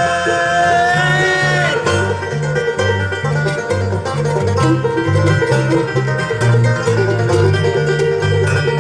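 Live bluegrass band playing: a held sung note ends about two seconds in, then an instrumental break of banjo picking over guitar and a bass line.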